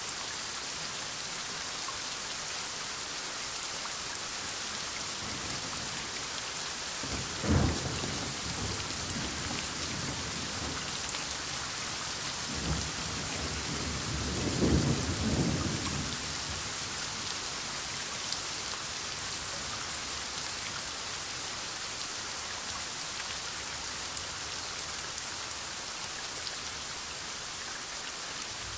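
Steady heavy rain hissing, with a sharp thunderclap about a quarter of the way in and a longer rolling rumble of thunder near the middle that fades out.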